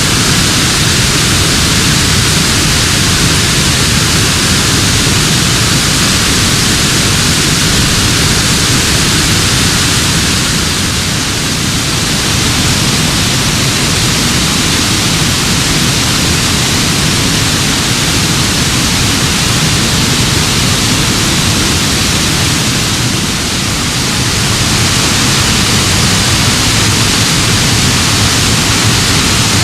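Loud, steady rush of Minaret Falls, a creek cascading down steep rocks, close to the microphone; it dips slightly twice.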